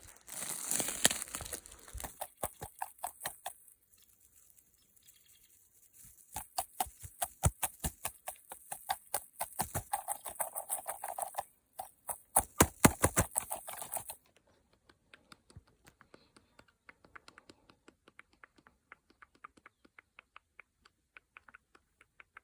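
Rapid ASMR tapping on a hard object, in runs of quick sharp clicks. About two-thirds of the way in it drops to faint, sparse ticks.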